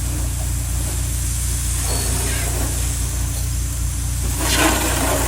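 Car engine idling steadily, with a brief rush of noise near the end.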